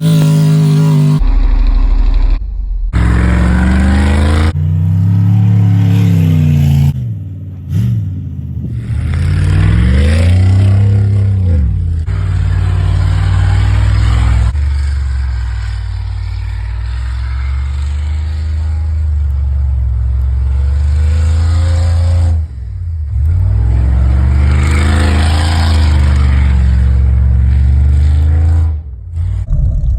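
Truck engine revving up and down over and over as it spins donuts in snow, with a few abrupt breaks where the sound changes suddenly.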